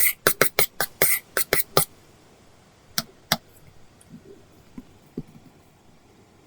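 Apple Pencil tip on an iPad screen covered with a paper-like film, making a quick run of short scratchy strokes, about six a second. The run stops about two seconds in, and two more strokes follow about a second later.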